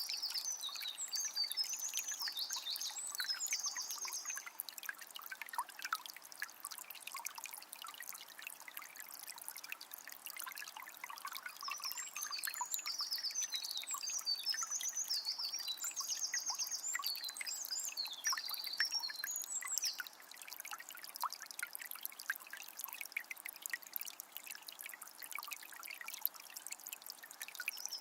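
Water of a small spring trickling and splashing steadily. A songbird sings a run of quick chirps and trills at the start, again for several seconds around the middle, and once more at the end.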